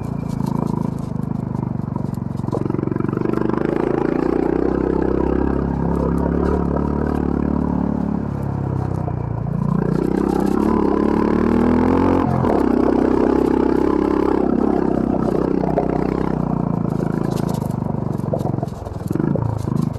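Honda CB350 RS's 348 cc air-cooled single-cylinder engine running under load on a rough trail, its revs rising and falling several times as the rider works the throttle and gears. A sharp knock comes about twelve seconds in.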